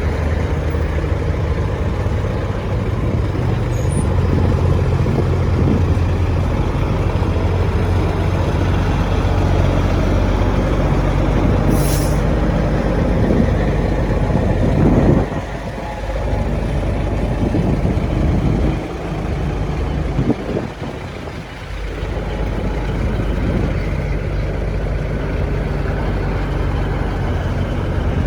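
Heavy truck diesel engine running with a steady low drone, with a short hiss about twelve seconds in.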